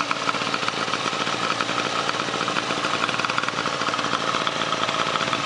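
1929 Scott motorcycle's two-stroke twin engine running steadily, a fast even beat with no change in speed.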